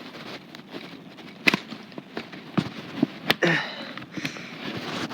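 Light, irregular clicks and knocks of a plastic HO-scale model railway wagon being handled by hand on the track, with a few sharper clicks.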